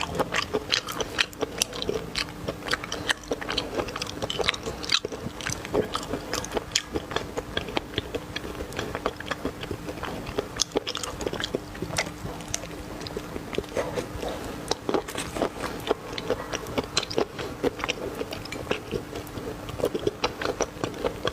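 A person biting and chewing food close to the microphone: a dense, irregular run of crunchy clicks and smacks, over a faint steady hum.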